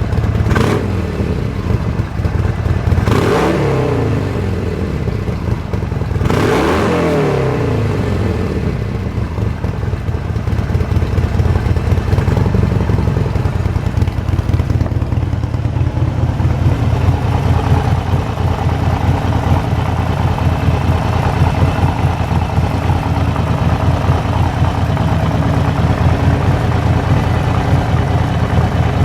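Harley-Davidson XL1200R Sportster's V-twin through Trump Cycle aftermarket mufflers, blipped three times in the first seven seconds, then idling steadily.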